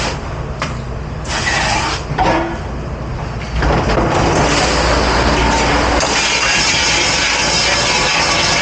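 Steady rushing noise of a restaurant dish pit at work, likely spraying water and the dish machine, jumping louder about three and a half seconds in.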